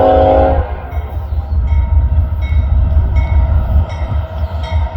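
Diesel freight locomotive's multi-note air horn chord cuts off about half a second in, leaving the low rumble of the passing locomotives. A grade-crossing bell rings faintly and evenly underneath, and the horn sounds again right at the end.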